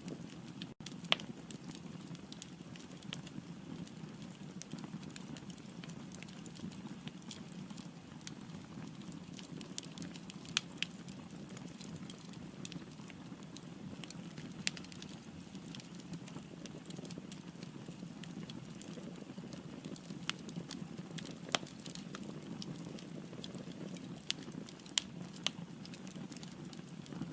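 Firewood burning in a fireplace: a steady low rush of flame with frequent small crackles and a sharp pop every few seconds.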